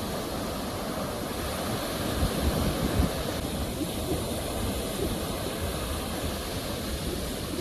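Ocean surf: a steady rush of sea waves, swelling a little louder about two to three seconds in.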